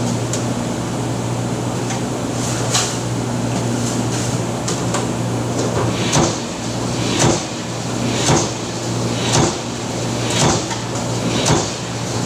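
Factory press machine cycling: a sharp stroke clank over a steady machine hum. The strokes come irregularly at first, then settle into an even rhythm of about one a second.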